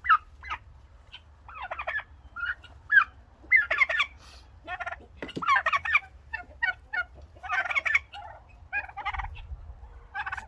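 Domestic turkey hens calling: a run of a dozen or so short, separate calls, some single and some in quick pairs or clusters.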